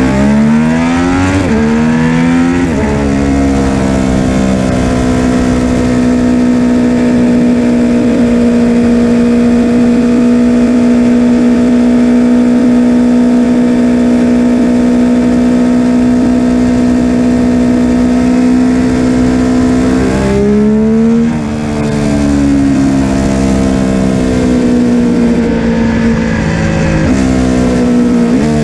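Triumph Street Triple RS 765's inline three-cylinder engine through its stock muffler with the secondary catalytic converter removed and the main cat intact. The engine speed climbs in steps over the first few seconds, then holds steady for a long stretch. It rises and drops again about two-thirds through, and changes once more near the end.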